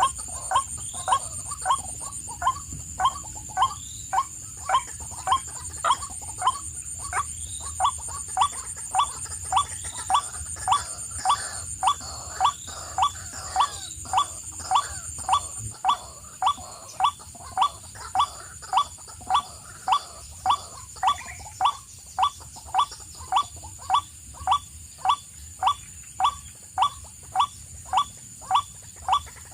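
A bird's short rising call, repeated very evenly almost twice a second, with a steady high-pitched buzz behind it.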